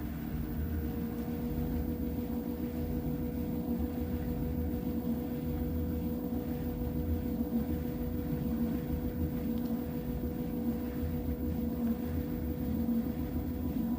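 LG washing machine in its final spin cycle: the drum motor whines at a steady pitch over a low rumble, holding at spin speed.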